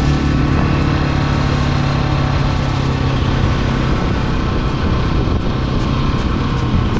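KTM 690 Enduro R's single-cylinder engine running steadily while riding.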